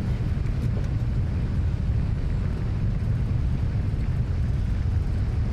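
Steady low rumble of engine and airflow noise inside a Boeing 777 cockpit, climbing out at takeoff thrust just after liftoff.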